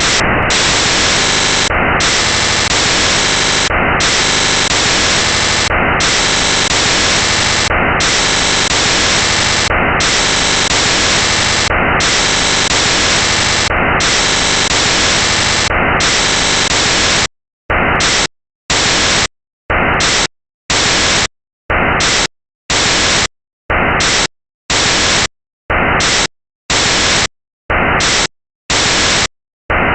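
Loud, even static hiss. About two-thirds of the way through it breaks into a regular on-off chop, short bursts of static separated by dead silence roughly once a second: corrupted or glitched audio rather than an acoustic sound.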